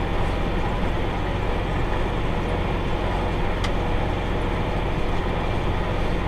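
Tractor running steadily while pulling a round baler through the hay, a constant mechanical drone. A faint tick about three and a half seconds in.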